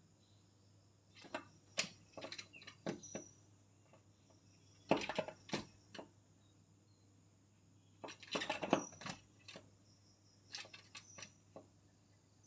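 Woodpecker pecking, in sharp taps that come singly and in two quick rapid clusters.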